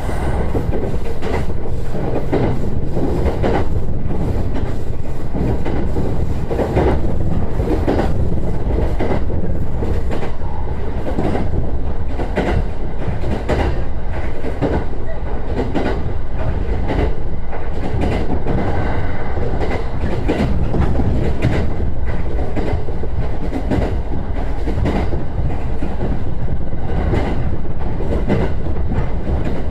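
JR East E129 series electric train running along the line: a steady rumble of wheels on rail with repeated clickety-clack knocks over the rail joints.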